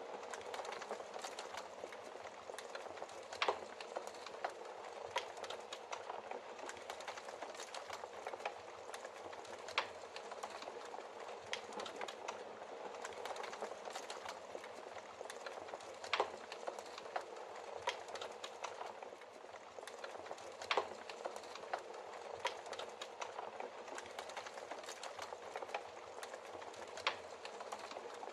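Logs burning in a fireplace: a steady hiss of flame with frequent small crackles and a few louder sharp pops, spaced several seconds apart.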